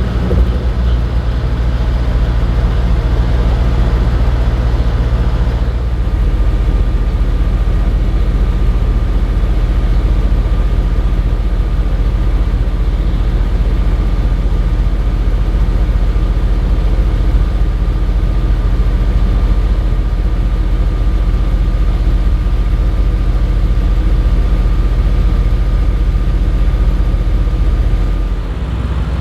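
Audi RS6 C7 Performance's twin-turbo V8, breathing through an Akrapovic exhaust, idling steadily with a deep, even burble.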